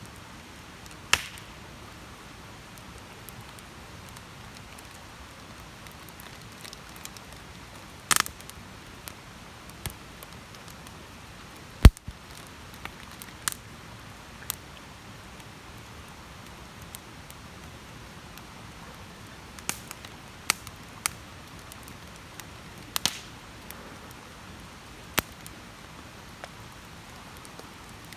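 Wood campfire crackling: irregular sharp pops and snaps over a soft steady hiss, with one loud pop about twelve seconds in.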